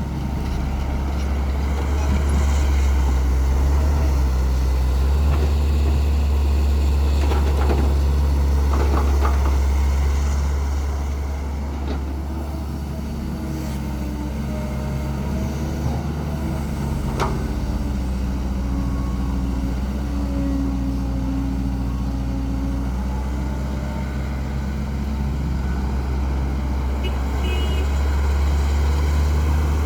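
Caterpillar E120B excavator's diesel engine running steadily as it works, growing louder about two seconds in, easing after about ten seconds and rising again near the end. A single sharp knock partway through.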